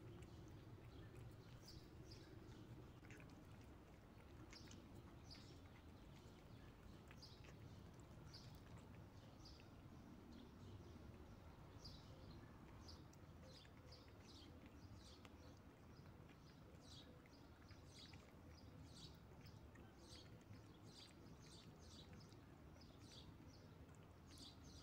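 Faint steady low background noise with small birds chirping, short high chirps coming in quick runs, busier in the second half.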